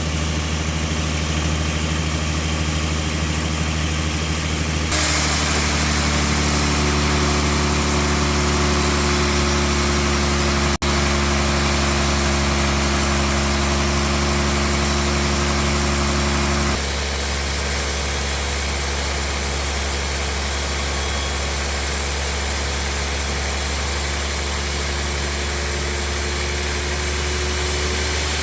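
Sawmill bandsaw machinery running with a steady engine-like hum. It turns brighter with added tones about five seconds in and changes back abruptly about seventeen seconds in, with a brief dropout near the middle.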